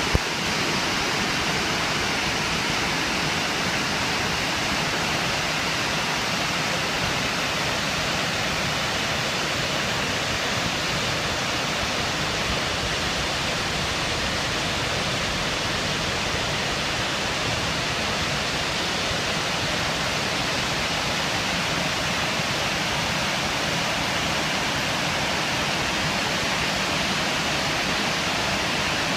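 Waterfall swollen by typhoon rain, its falling water making a steady, unbroken rush.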